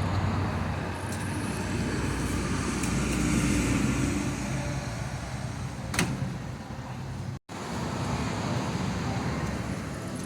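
Scania LK truck's V8 diesel engine running steadily with a low hum. There is one sharp click about six seconds in, and the sound cuts out for an instant a little later.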